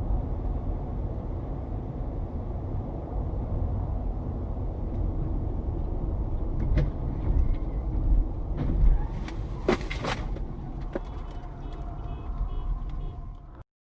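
Car road and engine noise picked up by a dash cam: a steady low rumble with several sharp knocks between about seven and ten seconds in, cutting off suddenly near the end.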